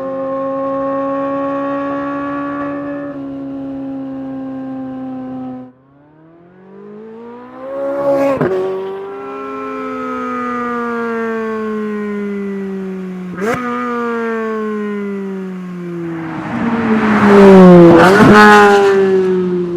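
Chevrolet Corvette C8 Z06's flat-plane-crank V8 exhaust. It holds steady revs, drops off about six seconds in, then climbs. After that the pitch falls away in long sweeps, broken twice by sharp cracks, and the loudest rise and fall of the engine comes near the end.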